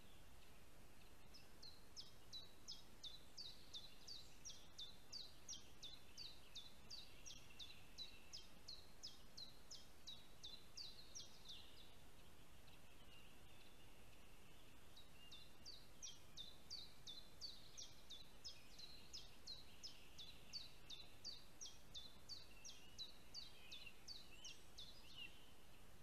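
Faint bird calls: a long run of short, high, down-slurred notes at about three a second, in two bouts of roughly ten seconds each with a pause of a few seconds between them, over a steady background hiss.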